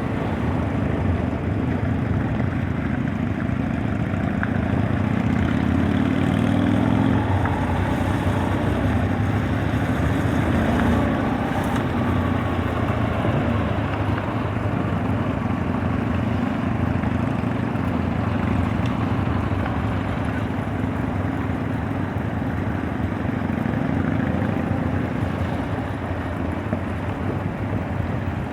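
Copa Truck racing truck's engine running at speed on a race circuit, a steady drone with no break.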